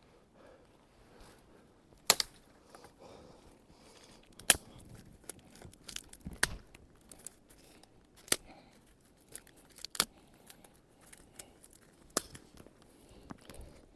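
Small dry twigs being snapped by hand for kindling: a series of sharp cracks, about six loud ones roughly two seconds apart with smaller snaps and rustles between.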